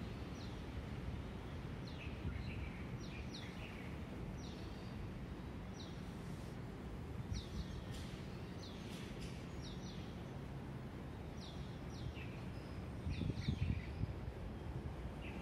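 Small birds chirping: short repeated calls, often several in a quick run, over a steady low outdoor background rumble. Near the end comes a brief louder low rumble.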